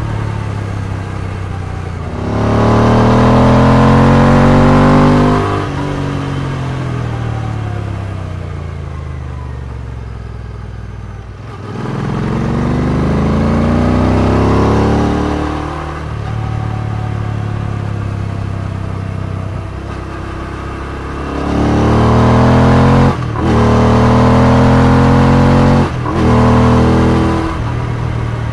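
Royal Enfield Interceptor 650's parallel-twin engine through aftermarket exhausts while riding. Three times the throttle opens and the note climbs in pitch, falling away again as the bike coasts off-throttle between them. Two quick upshifts briefly cut the last pull.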